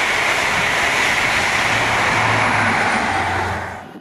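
Express passenger train's coaches passing at speed close by: a loud, steady rush of wheels on rail and air, which falls away sharply near the end.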